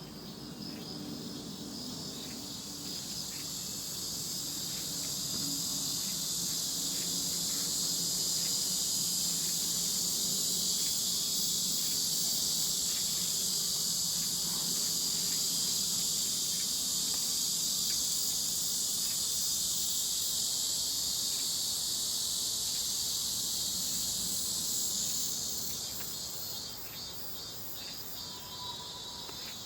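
Insects chirring in a dense, high-pitched chorus that swells a few seconds in, holds steady, and fades near the end.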